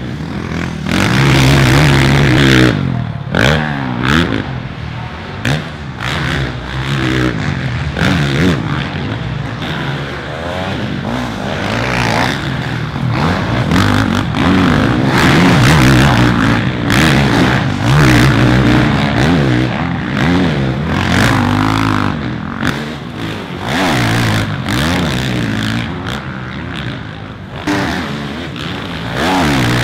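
Motocross bikes on track, several engines revving up and down and overlapping, their notes rising and falling as they accelerate, shift and pass, with some clattering.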